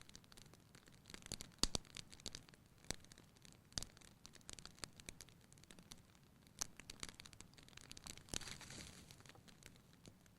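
Wood fire crackling in a fireplace: irregular pops and snaps of varying strength, with a brief soft hiss about eight and a half seconds in.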